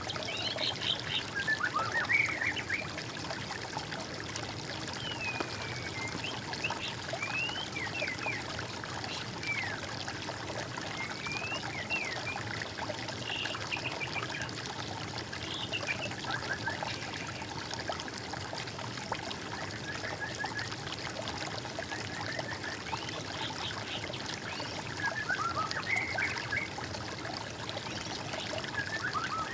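Water trickling steadily, with birds singing short whistled phrases over it that rise and fall in pitch. The phrases are loudest a couple of seconds in and again near the end.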